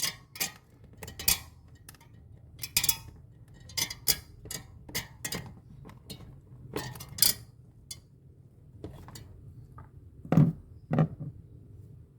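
Irregular clinks and taps of hard objects, like tools and small metal or plastic parts knocked together while working on a refrigerator, with two heavier knocks near the end.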